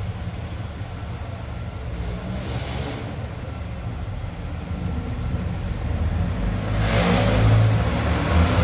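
Steady low mechanical hum that grows louder toward the end, with a brief burst of hissing noise near the end.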